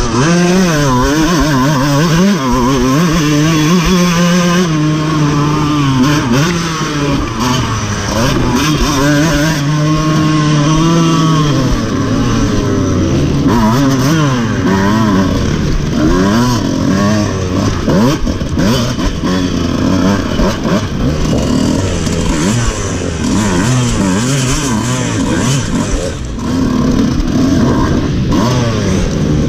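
Off-road dirt bike engine heard close up from the bike itself, its pitch rising and falling as the throttle is worked and gears change. It holds fairly steady for a few seconds about two and ten seconds in, then turns choppy with quick blips of throttle.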